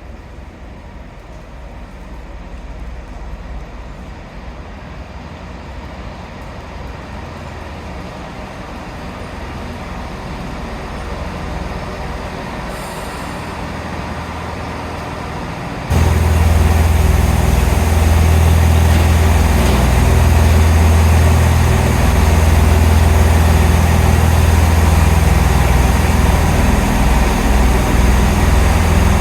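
A diesel train's engines running, the rumble building slowly, then much louder and steady from about halfway, when the sound jumps up suddenly.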